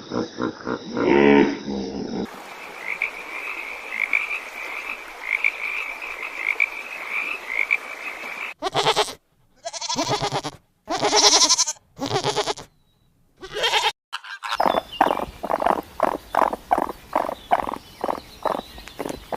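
A series of edited animal-call clips: first a steady chorus with a pulsing trill, then several separate bleat-like calls broken by sudden silent cuts, then a rapid run of evenly spaced croak-like calls.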